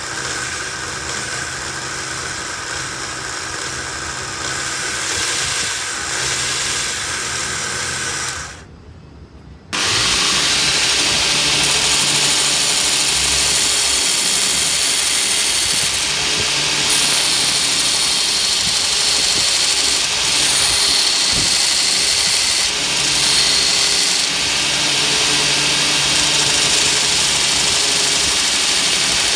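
A homemade belt grinder driven by an angle grinder, running continuously. About nine seconds in the sound drops out for roughly a second, then returns louder with more high-pitched hiss, varying in tone for the rest of the time.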